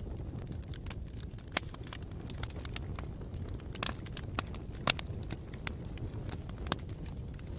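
Wood fire burning with a steady low rumble and scattered sharp crackles and pops, one loudest about five seconds in.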